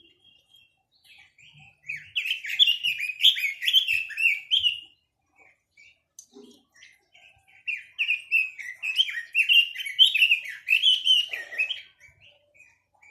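A caged songbird of the kind kept in Vietnam as 'quế lâm' singing two long runs of fast, warbling song, the first about two seconds in and the second near the middle, with a few scattered chirps between them.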